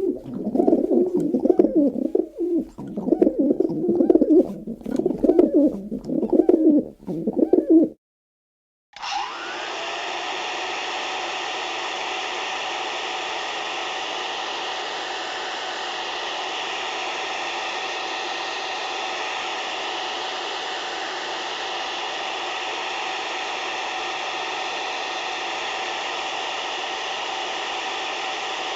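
Bird cooing in repeated low phrases for about eight seconds. After a short gap, a steady whirring machine noise starts with a quick rising whine and runs on evenly.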